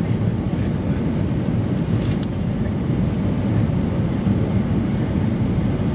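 Steady low roar of a Boeing 757's engines and rushing air heard inside the passenger cabin on approach to landing, with a brief faint click about two seconds in.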